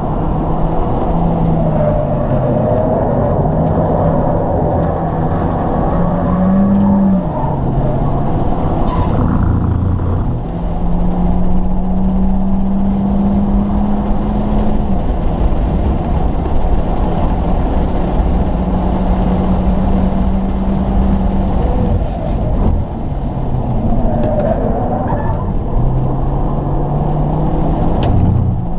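Hyundai Elantra Sport's turbocharged four-cylinder engine driven hard on track. The engine note climbs slowly through the revs and drops back at each of several gear changes, over steady road and wind noise.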